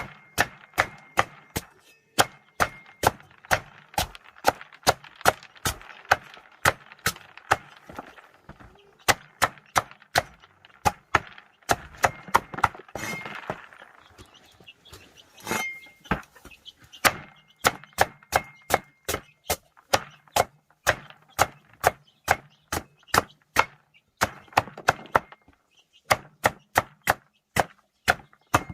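Steady chopping with a blade, about two to three hard strikes a second, pausing briefly a few times.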